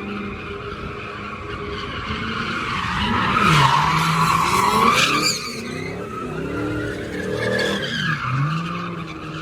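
A car engine revving up and dropping back several times while its tyres squeal, the squeal loudest in the middle.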